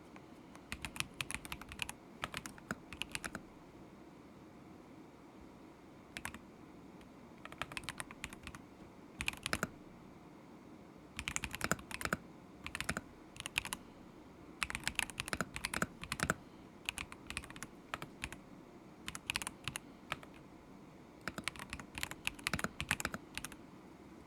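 Typing on a KZZI K75 Pro mechanical keyboard fitted with Moment linear switches: quick runs of key clacks, broken by short pauses every second or two.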